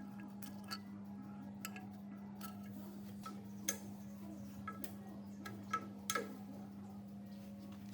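Scattered light metallic clicks and taps, small metal parts or hand tools being handled, each with a short ring, over a steady low hum.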